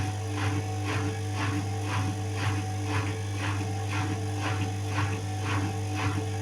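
Indesit WIU81 front-loading washing machine running: a steady low hum under a regular swish that repeats about twice a second as the drum turns.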